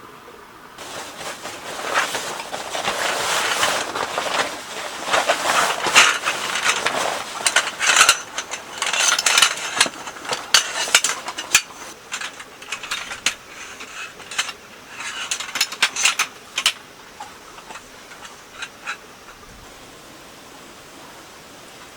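Irregular rustling and clicking with short scraping bursts, as of objects being handled up close, busiest through the first two-thirds and then thinning to a few scattered clicks.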